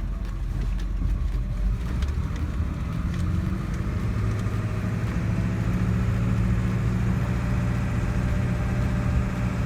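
Car engine and road noise heard from inside a slowly moving vehicle, a steady low hum that grows fuller about three to four seconds in as the car picks up a little speed.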